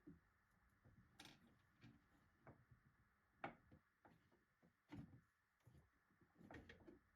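Near silence broken by a few faint, scattered clicks and light knocks.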